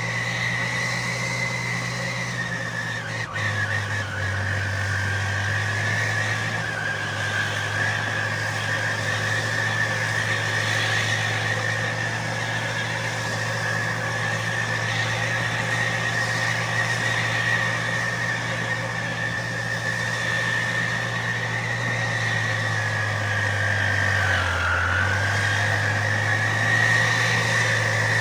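Fiat 640 tractor's diesel engine running steadily under load while pulling a plough, with its exhaust note to the fore and a steady high whine alongside. The engine pitch dips briefly twice, a few seconds in and again near the end, as it labours and recovers.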